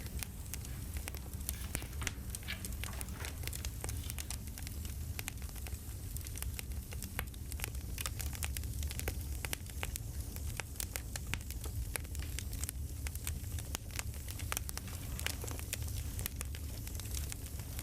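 Campfire crackling steadily, with irregular snaps and pops over a low rumble.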